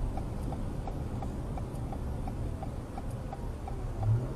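A car's turn-signal indicator clicking evenly, about three ticks a second, over the low rumble of the engine and road heard from inside the car. A low hum swells briefly near the end.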